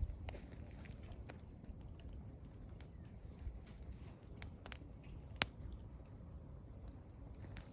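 Wood campfire burning with irregular crackles and sharp pops, one pop about five seconds in louder than the rest. A bird calls three times with a short high chirp that falls in pitch.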